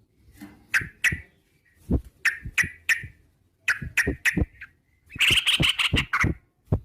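Yellow-vented bulbul (trucukan) singing: short bubbly notes in quick groups of two or three, then about five seconds in a dense, rapid chattering trill of the 'ropel' kind.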